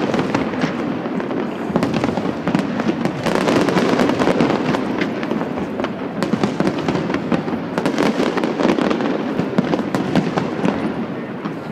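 Fireworks display: a dense, continuous barrage of bangs and crackles from many shells bursting in quick succession.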